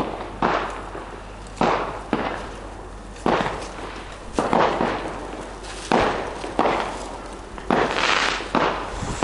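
A rapid run of firework bangs, one or two a second, each sharp crack trailing off in a rolling echo.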